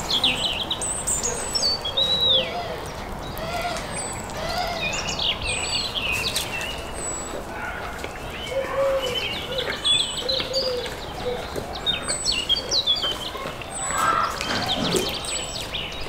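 Small birds chirping and twittering throughout, with short, high, quickly gliding calls, plus some lower arched calls now and then and a few sharp clicks.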